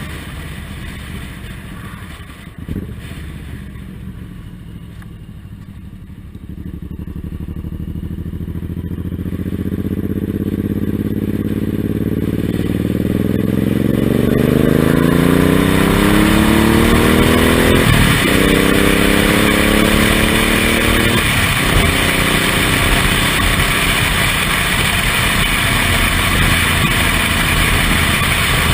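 Suzuki Intruder M1800R's big V-twin engine heard from the pillion seat, pulling away from low revs and accelerating, its pitch climbing with two gear changes past the middle. It then settles into a steady cruise under a building rush of wind noise.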